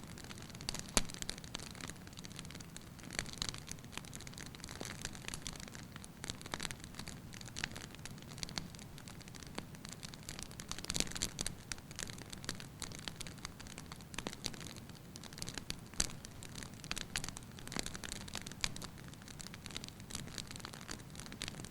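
Wood fire burning in a fireplace: logs crackling with many sharp pops over a steady low rush of flame.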